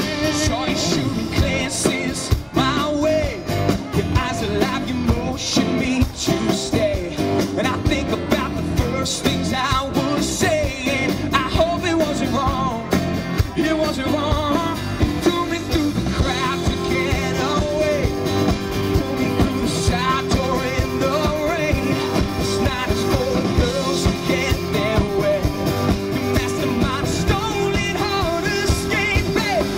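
Rock band playing live: a male lead voice singing over guitars and drums with a steady, driving beat.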